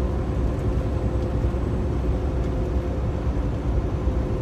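Steady drone of a 2015 Kenworth T680 semi truck cruising at highway speed, heard inside the cab: a low engine and road rumble with a faint steady hum.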